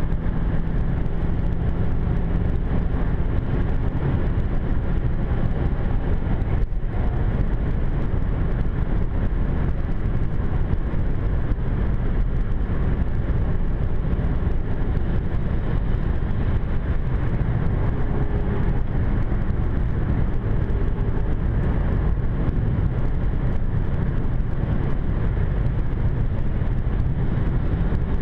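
Cabin sound of a BMW 550i F10 driving at a steady speed: a constant drone of road, tyre and wind noise over the engine, with no marked revving and a brief dip about seven seconds in.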